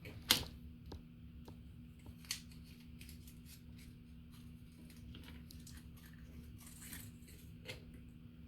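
Small clicks and taps of hands handling the small parts of a Christmas village model mill, the sharpest click just after the start and a few lighter ones later, over a faint steady hum.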